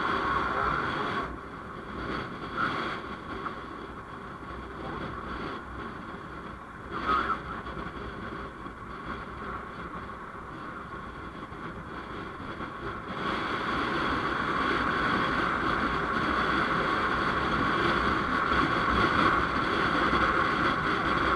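Vehicle running along a road, heard onboard as steady engine, tyre and wind noise. It drops quieter about a second in and rises again a little past the middle.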